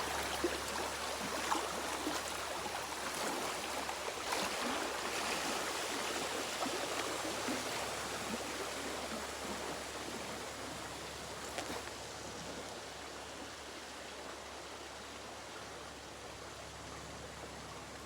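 River water rushing around a float tube, a steady noisy wash that gradually fades as the current slackens.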